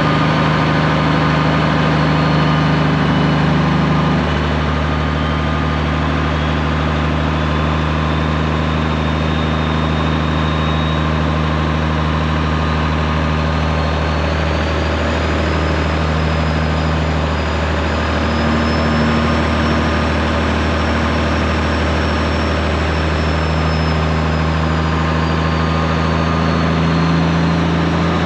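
Straight-piped Peterbilt 389 semi's diesel engine running at a steady engine speed, with a deep, even drone. The engine note shifts slightly about four seconds in. A thin high whine slowly rises and then falls in pitch.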